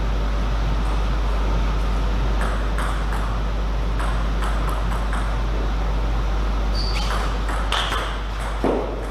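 Table tennis ball clicks: the celluloid/plastic ball bouncing on the table and struck by rackets in an irregular series of sharp ticks, busiest and loudest near the end, over a steady hall hum.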